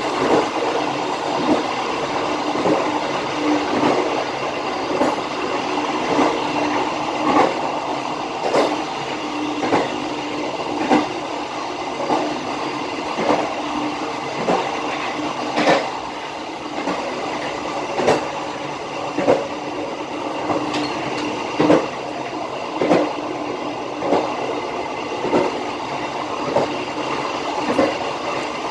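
Passenger train carriage running along the track, heard from inside the rear car. Its wheels clack over rail joints about once every second and a bit, over a steady rumble and hum.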